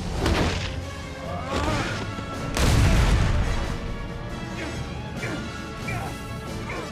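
Action-film soundtrack: orchestral score playing under crashing impacts, a sharp hit at the start and a heavier, louder crash about two and a half seconds in.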